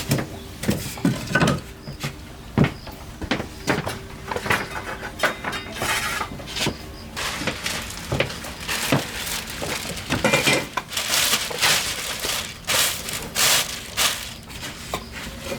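Irregular clatter of knocks and clinks from hard objects being handled, a few a second throughout.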